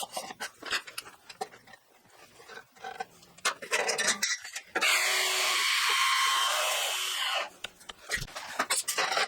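Shop clatter of tools and material being handled, then a power tool runs steadily for about two and a half seconds from about five seconds in, followed by more knocks and clatter.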